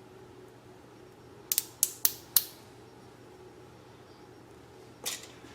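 Hose clamps being fitted onto rubber fuel hose with a tool: four sharp clicks in quick succession about a second and a half in, and one more near the end.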